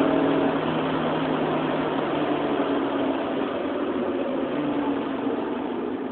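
Honda Civic LSi's four-cylinder engine running as the car drives at speed, heard from inside the cabin; its steady note eases slightly about half a second in.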